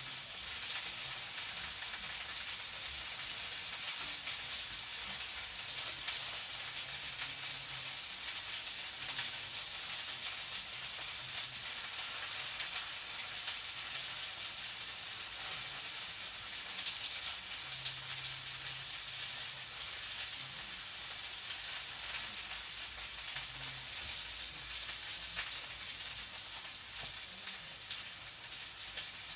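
Food sizzling in a frying pan: a steady, dense crackling hiss.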